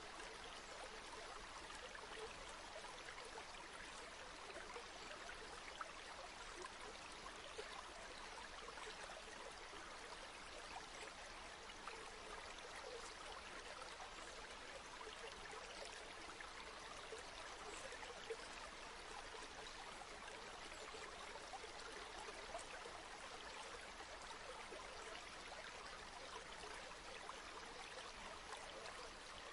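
River water flowing and babbling steadily, a soft continuous rush with small splashes and gurgles.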